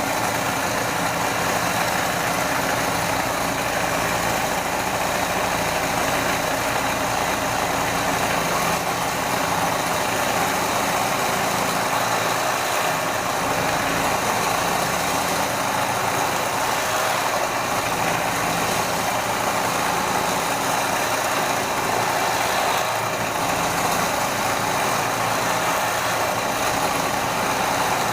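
Electric motor of a homemade drill press converted from a table saw, running steadily at an even speed.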